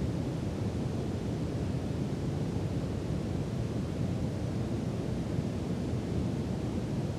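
Brown noise: a steady, even rumbling hiss weighted toward the low end, with no change or events.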